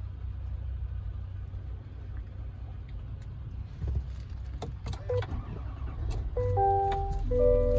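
Low, steady vehicle rumble with a few sharp clicks and knocks in the middle. Background music with held notes comes in about six seconds in.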